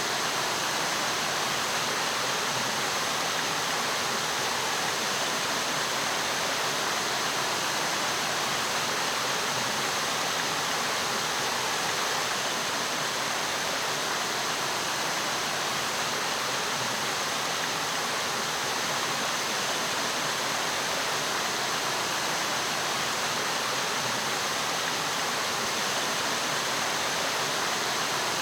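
Steady rushing of water flowing in a mountain stream, a constant even hiss with no breaks.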